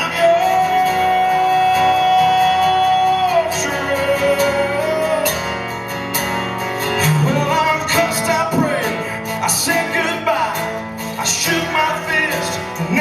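A country song performed with guitar-backed band and a male singer: a long held sung note that slides down a step about three and a half seconds in, then bending, drawn-out vocal runs.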